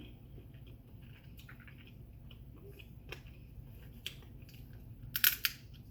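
A person chewing food close to the microphone, with small wet clicks and one loud, sharp crunch about five seconds in.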